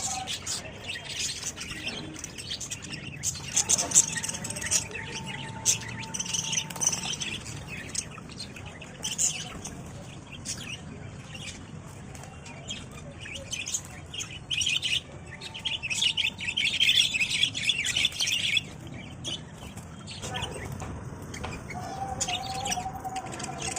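Budgerigars chirping and chattering, a busy run of short, irregular high chirps with a few held whistled notes.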